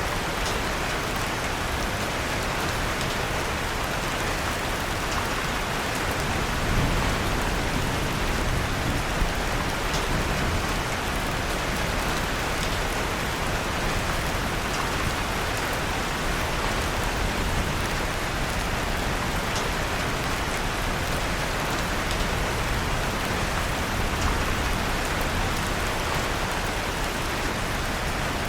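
Steady rain falling, mixed with the faint crackle of a wood fire in a fireplace. There are two brief louder pops, about seven and nine seconds in.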